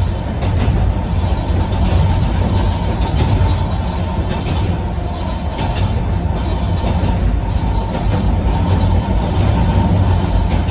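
Running noise heard inside a Sangi Railway Hokusei Line narrow-gauge electric car (Mo275) under way. There is a steady low rumble from the wheels and running gear on the track, with scattered clicks.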